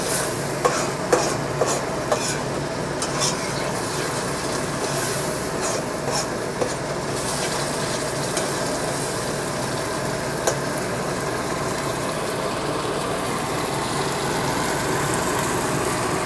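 Onion and tomato paste sizzling steadily in a pot while a metal spoon stirs them, the spoon clicking and scraping against the pot several times in the first few seconds and once more near the middle.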